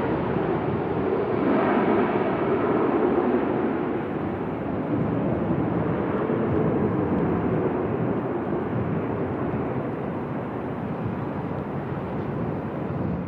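Airbus A321 airliner departing, its jet engine noise a steady rushing roar that eases slowly as the aircraft climbs away.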